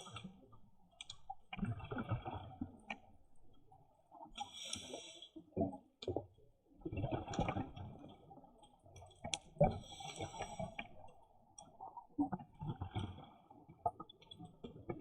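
Scuba diver breathing through a regulator underwater: hissing inhalations alternate with rumbling bursts of exhaled bubbles every few seconds, with scattered sharp clicks between them.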